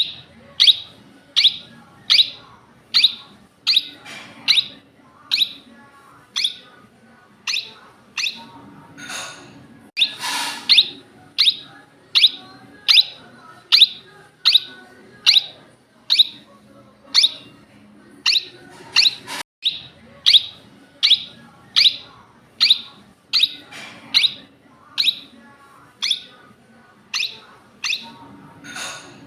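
Indian ringneck parakeet calling: a long series of short, sharp, high calls, one every second or less, with a few longer, harsher screeches mixed in.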